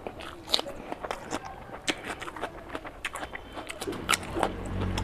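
Close-miked eating of rice and curry by hand: wet mouth smacks and sharp chewing clicks, irregular and frequent. About four seconds in, a low steady hum comes up underneath.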